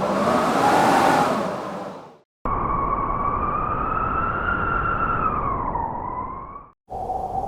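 A rush of blizzard wind that cuts off suddenly about two seconds in, then a single long wolf howl of about four seconds, its pitch slowly rising and then falling away near the end, over a low wind rumble.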